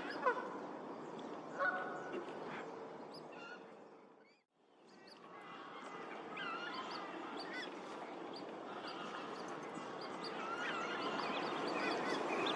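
Geese honking among other waterfowl calls. The sound fades out to silence about four seconds in, then fades back up, with the calls growing busier towards the end.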